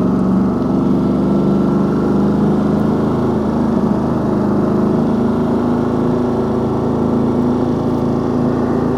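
Ducati Multistrada 1200 Enduro's L-twin engine running at a steady, even pace while riding, heard from the onboard microphone.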